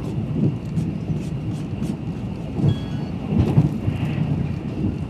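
Steady low rumble of a moving passenger train heard from inside the carriage, its wheels running on the rails, with louder knocks about two and a half and three and a half seconds in.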